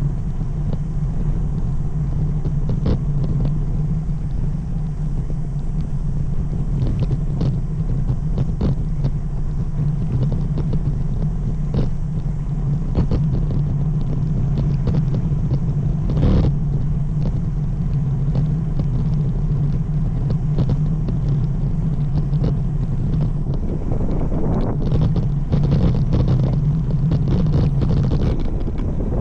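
Steady rumble of wind and road noise on a camera riding along on a road bike, with scattered light clicks and knocks, one stronger about 16 seconds in.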